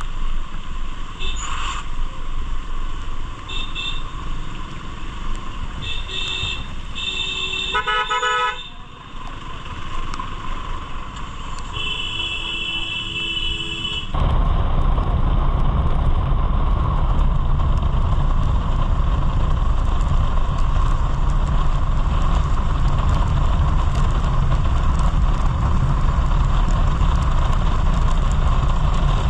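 A vehicle horn sounds in several short toots, including a fast stuttering burst, then in one blast of about two seconds. About fourteen seconds in, a loud, steady, low engine rumble starts abruptly and continues.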